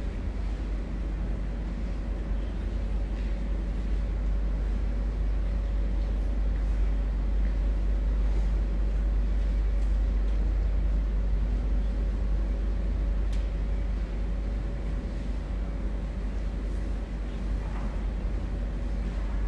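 Steady low rumble with a faint constant hum and a few faint ticks.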